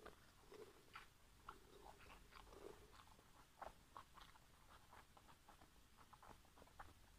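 Faint close-up chewing of a steamed pork momo: soft, irregular mouth clicks and smacks, several a second.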